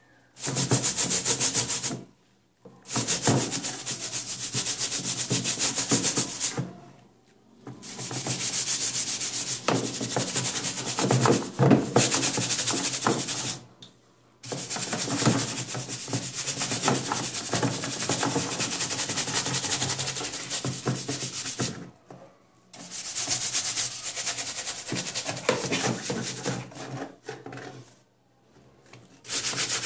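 Sanding on an old car grille, in runs of a few seconds broken by brief pauses, six runs in all.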